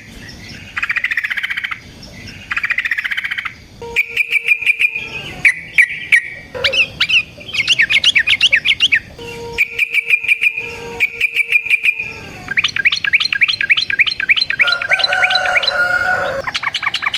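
Yellow-vented bulbul (trucukan) singing in loud, fast bursts: short rattling trills, clear whistled notes and bubbly chattering phrases, with a long chattering trill about three quarters of the way through. Lower notes overlap it there, as if a second bird is answering.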